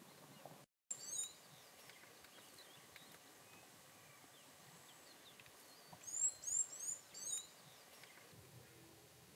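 Faint open-air ambience with a bird giving short, high chirps that drop in pitch: a couple about a second in, and a quick run of four or five about six seconds in. The sound cuts out completely for a moment just before the first chirps.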